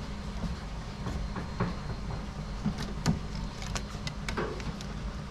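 Scattered light clicks and knocks as a wooden hive frame and elastic bands are handled, over a steady low hum.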